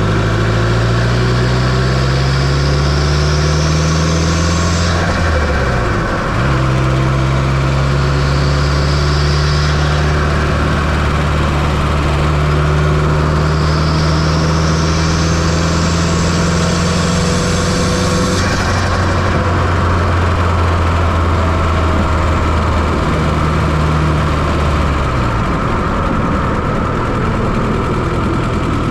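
1995 Fiat Coupe 2.0 16V turbocharged inline-four running, heard close up from the engine bay. A high turbo whine rises with boost and cuts off three times. The engine note drops sharply twice as the throttle comes off.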